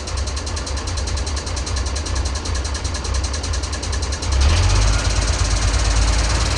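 Turbocharged engine of a Ford D series 1314 tipper truck running steadily with an even rapid beat, getting louder about four and a half seconds in.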